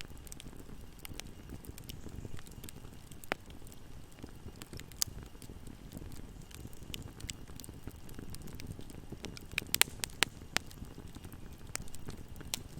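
Wood fire burning in a fireplace: a steady low rumble of flames with scattered crackles and pops, and a quick cluster of sharper pops about ten seconds in.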